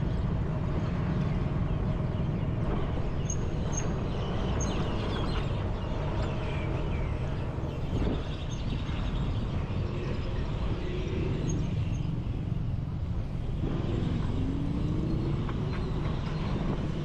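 Road traffic and wind rush heard from a moving e-bike, a steady low rumble of passing cars and motorbikes. Near the end, a vehicle's engine rises in pitch as it accelerates.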